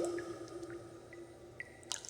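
Water droplets falling into water: one loud plop at the start with a ringing tone that fades over about a second and a half, then a few smaller drips.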